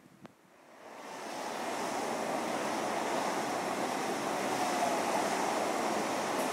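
A train running through the station: a rushing rail noise that swells up about a second in and then holds steady.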